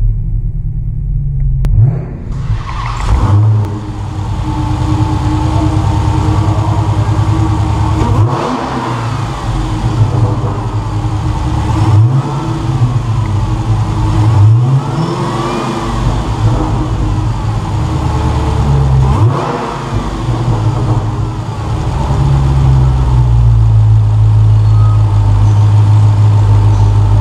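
The supercharged 6.2-litre Hemi V8 of a 2015 Dodge Challenger SRT Hellcat running, revved up and let fall back several times, then running steadily near the end.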